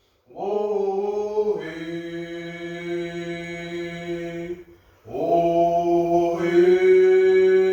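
A single voice chanting a First Nations welcome song in two long held notes, each about four seconds, with a short breath between them and the pitch stepping up near the end.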